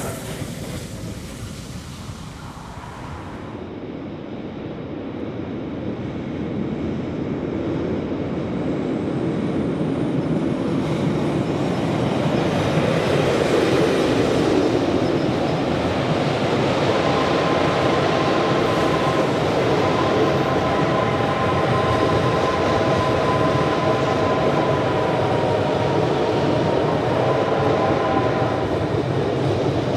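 Passenger train rolling across a steel trestle bridge, its wheels clattering over the rail joints. The sound grows louder over the first ten seconds or so as the train comes on, then holds steady. A steady hum of several tones joins in from about the middle onward.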